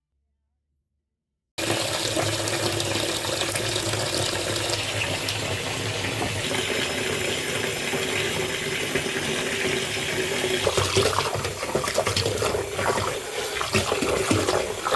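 Water running hard from a tap, cutting in suddenly about a second and a half in and then running steadily.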